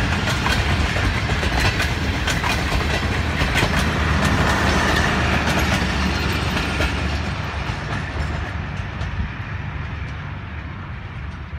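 Pakistan Railways passenger coaches rolling past on the rails, their wheels clicking over the rail joints. The sound fades from about seven seconds in as the end of the train draws away.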